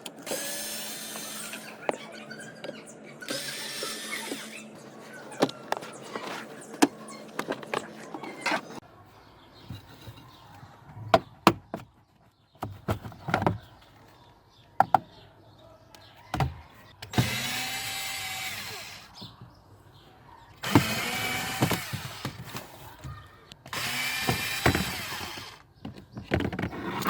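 Power drill-driver whirring in about five short bursts of one to two seconds, with scattered clicks and knocks of tools and parts being handled.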